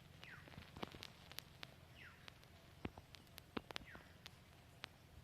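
Faint bird calls: a short, thin, falling chirp repeated about every two seconds, three times, among scattered sharp ticks and clicks.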